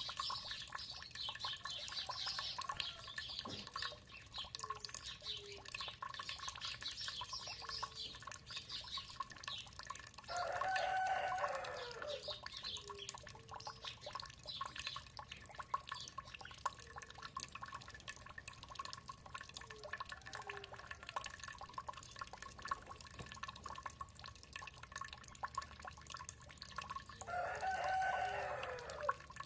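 A rooster crowing twice, once about ten seconds in and again near the end, over water dripping steadily. Small birds chirp high through the first third.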